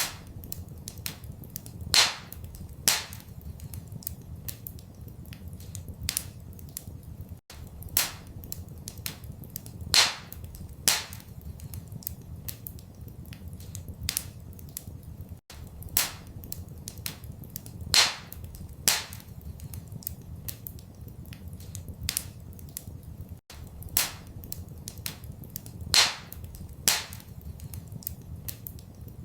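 Wood fire crackling in a fireplace, with sharp pops and snaps over a steady low rumble. The same short stretch of crackles repeats about every eight seconds, with its loudest pop each time.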